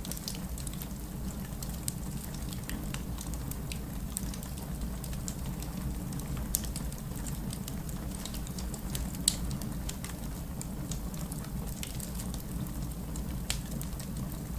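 Wood fire crackling in a fireplace: irregular sharp pops and snaps over a steady low rumble of the burning fire, with two louder pops about six and a half and nine seconds in.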